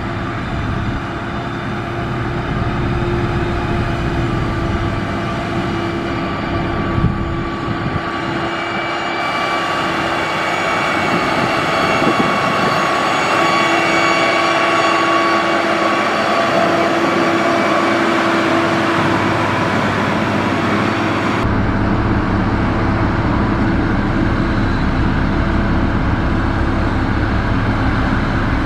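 Diesel engine of heavy road-building machinery running steadily, with several steady engine tones over a rumble. About three quarters of the way through the sound changes suddenly to a heavier, deeper rumble.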